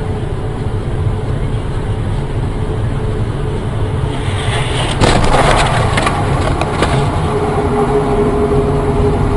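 A car driving with a steady rumble of road and engine noise. About five seconds in comes a sudden loud crunch followed by several sharp knocks over about two seconds, as in a collision, and then the driving noise carries on.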